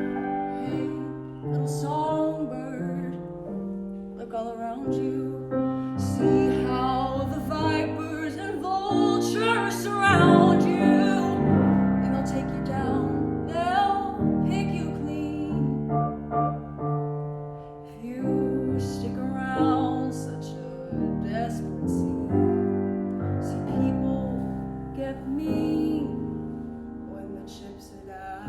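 A solo voice singing a musical-theatre song over piano accompaniment, with held notes sung with vibrato.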